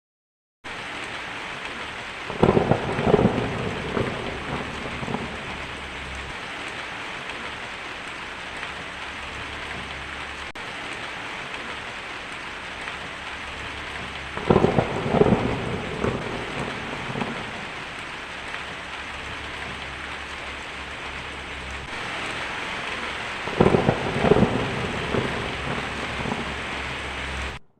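Thunderstorm: steady rain falling, with three claps of thunder, one a couple of seconds in, one near the middle and one near the end. Each clap is a cluster of sharp cracks that rumbles off over a few seconds.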